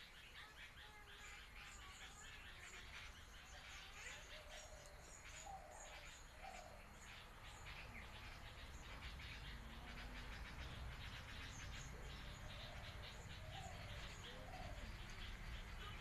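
Faint wild birds calling in scrub: a dense run of short, high ticking notes throughout, and a low two-note call heard twice, once in the middle and once near the end.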